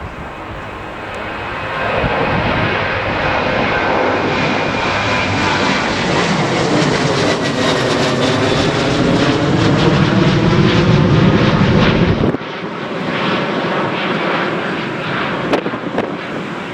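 Airliner engines passing close by: the noise builds about two seconds in and falls in pitch as the aircraft goes past. Near the end the deep rumble drops away abruptly, leaving a lighter rush.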